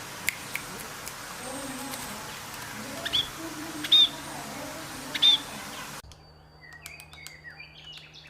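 A parrot calling: three short, sharp high calls, each about a second apart, over a steady background hiss. About six seconds in, the sound cuts to a quieter scene of softer chirps and clicks.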